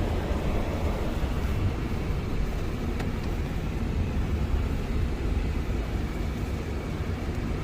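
Steady low rumble of a running work truck, with a single faint click about three seconds in.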